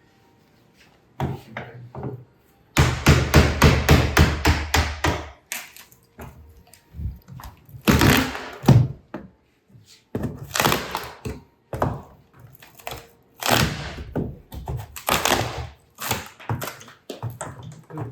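Knocking and thudding on wood as a nailed wooden packing case is opened: a quick run of about a dozen even knocks, then louder irregular bursts of banging and scraping every second or two as boards are worked loose.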